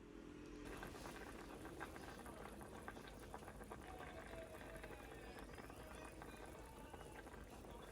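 Food bubbling and crackling as it cooks, a dense steady fizz that starts about a second in.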